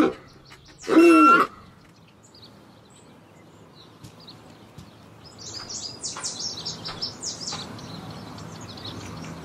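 A short, loud cry with a clear pitch, heard twice near the start, then a flurry of quick, high bird chirps from about five seconds in.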